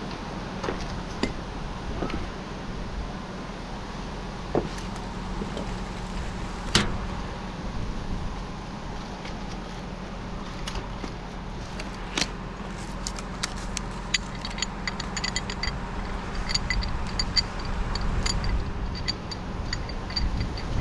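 An engine running steadily at a low hum, with scattered clicks and short metallic clinks and jingling of climbing and rigging hardware, which come much more often in the second half.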